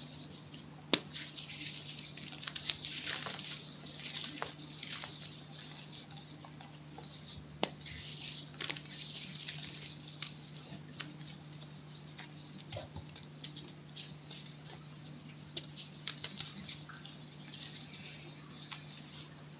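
Chalk crunching and crumbling close to the microphone: a dense run of crackles with frequent sharp cracks scattered throughout.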